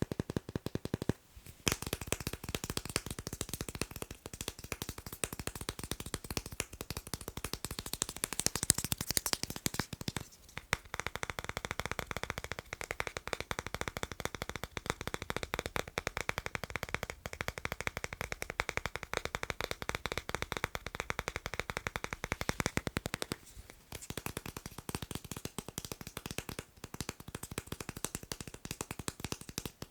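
Rapid tapping on magnets: a dense run of many quick clicks a second, broken by short pauses three times.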